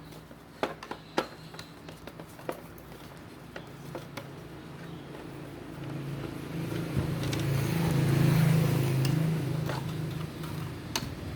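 Sharp clicks and knocks of ceiling fan parts and screws being handled during disassembly, then a low rumbling noise that swells to a peak about eight seconds in and eases off.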